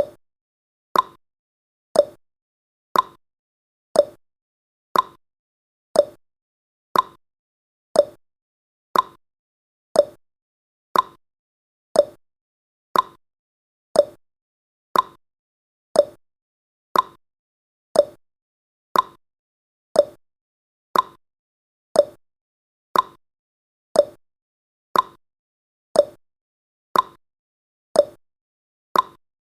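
Clock-tick sound effect of a countdown timer: one short sharp tick every second, alternating higher and lower in pitch like a tick-tock.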